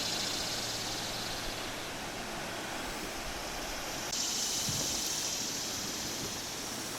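Outdoor river ambience: a steady rushing hiss, with an abrupt change in its tone about four seconds in.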